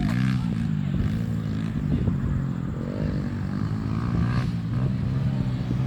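Pit bike engines running and revving, their pitch rising and falling as the bikes race.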